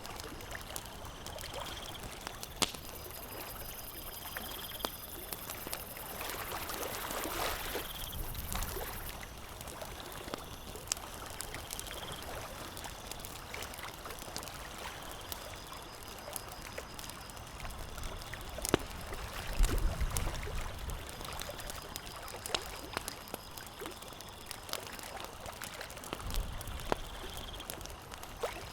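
Campfire crackling, with sharp pops scattered throughout over a steady hiss.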